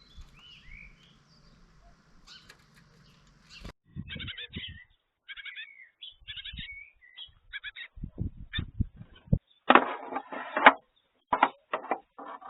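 Small garden birds chirping in short, rising and falling calls at a bird bath, mixed with low thumps and a run of loud, rustling bursts about two-thirds of the way through. A faint background hum cuts off abruptly about a quarter of the way in.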